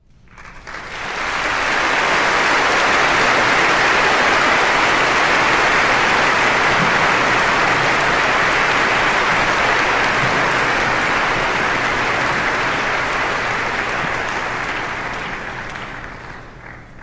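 Crowd applause, a dense wash of many hands clapping. It swells in over the first couple of seconds, holds steady, then dies away over the last few seconds.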